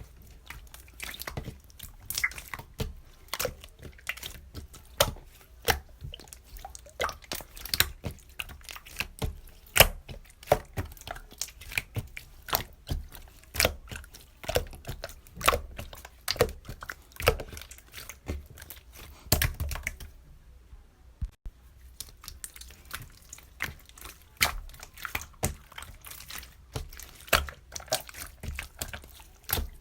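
Irregular sharp clicks and taps, several a second, with a pause of about a second and a half about two-thirds of the way through.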